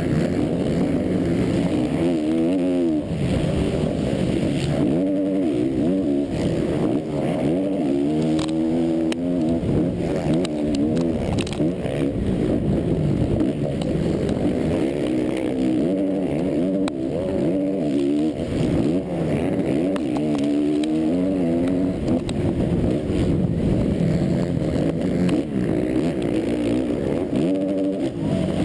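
Motocross race bike's engine heard close up from on board the bike, running hard the whole time, its pitch repeatedly climbing and dropping as the throttle is opened and shut and the gears change around the track.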